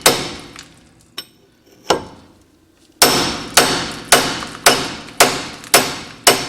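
Hammer blows on steel ringing out as a pitman arm held under tension by a makeshift all-thread puller is shocked loose from the steering gear. One blow, a pause with two light taps, then steady strikes about two a second from about three seconds in.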